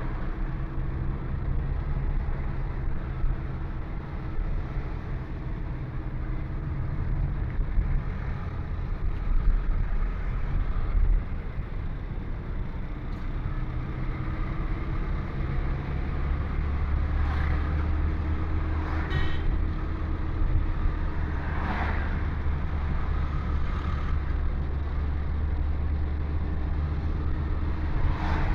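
Steady engine and road noise from a vehicle on the move, with a few short louder swells past the middle.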